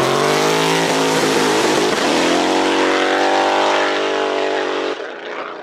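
Drift car engine held at high revs, its pitch nearly steady with a slight dip, then cutting off suddenly near the end.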